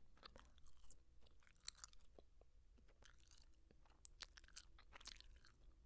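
Gum being chewed close to the microphone: faint, irregular mouth clicks and smacks.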